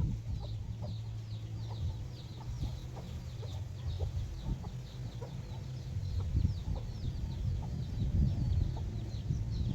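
A flock of free-range chickens calling: hens clucking, with many short, high, falling cheeps repeating several times a second over a low rumble.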